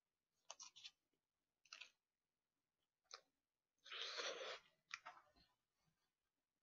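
Faint close-up eating sounds: a few soft clicks and wet mouth noises from chewing braised chicken, with one short louder rush of noise about four seconds in as a piece goes into the mouth.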